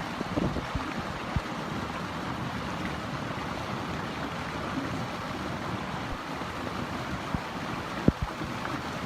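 Steady rushing water noise, with scattered low thumps of wind buffeting the microphone, one of them sharper about eight seconds in.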